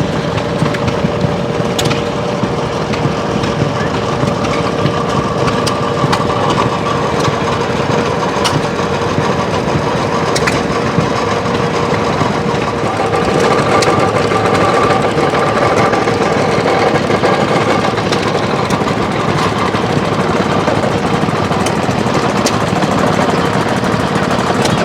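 Small engines running with a loud, fast, steady clatter, with a steady whine held underneath.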